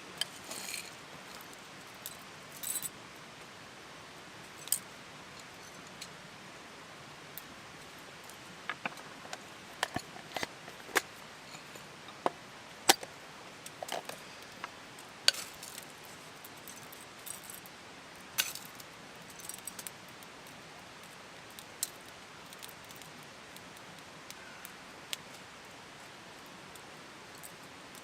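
Irregular sharp clicks and light clinks, a few louder than the rest, scattered over a steady low hiss.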